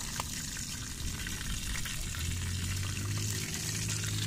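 Squid and fish frying in oil in a pan, a steady sizzle. A low steady hum comes in about two seconds in.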